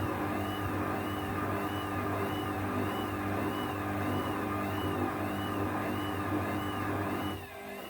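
1994 Ocean 900 washing machine running with a steady motor hum and a high whine that rises and falls in pitch a little under twice a second as the drum turns, likely in its drain and distribution phase before spin. The motor hum cuts out sharply about seven seconds in.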